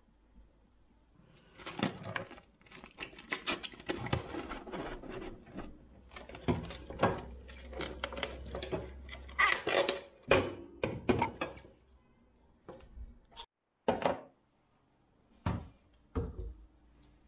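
Objects being handled: an irregular run of clicks, knocks and rustling with a faint low hum under it, thinning to a few separate knocks in the last few seconds.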